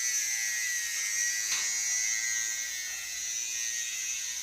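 Steady high-pitched buzz, even in pitch and level throughout, with a faint click about one and a half seconds in.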